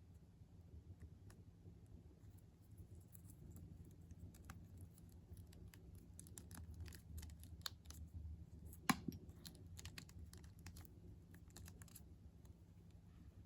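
Faint small clicks, taps and scratchy rustles of a ball-jointed doll and its packaging being handled during unboxing. One sharper click-knock comes about nine seconds in.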